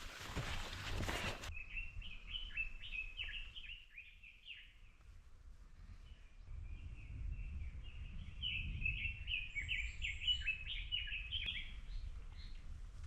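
A small bird calling in two runs of rapid, short chirps over a low background rumble. A burst of rustling noise ends about a second and a half in.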